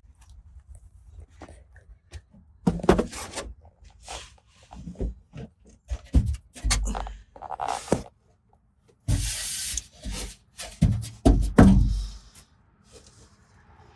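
Plastic fender liner being worked out of a car's wheel well by hand: irregular knocks, clicks and rubbing of the plastic, with a longer scrape about nine seconds in.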